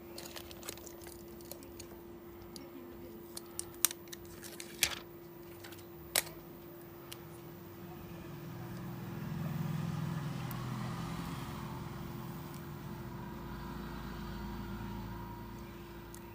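A few sharp clicks and taps of small tools and parts being handled. Then, about eight seconds in, a low rumble swells and slowly fades, over a steady low hum.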